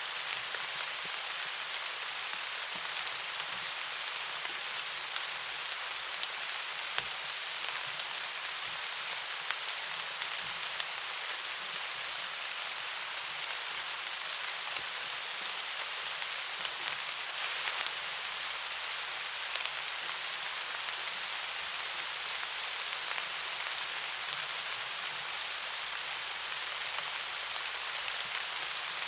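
Steady rain falling, an even hiss with occasional faint ticks.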